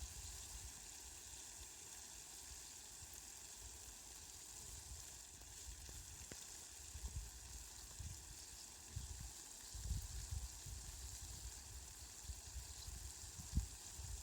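Steady, soft hiss of rain falling, with low rumbles coming and going underneath.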